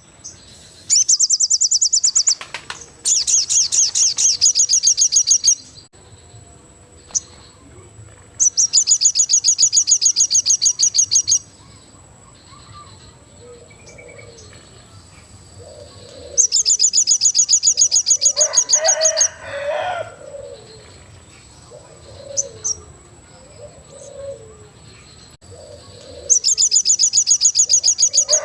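A songbird known to Indonesian keepers as a sogon singing in loud bursts of a very fast, high-pitched trill, each burst about two to three seconds long, five times over. Fainter, lower bird calls come between the bursts, loudest just after the third.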